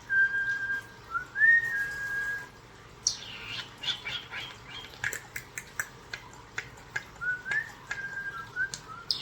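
Pet European starlings whistling and calling: two rising whistles that level off and hold, then a run of sharp clicks and quick downward-sweeping squeaky calls, and a few more short whistles near the end.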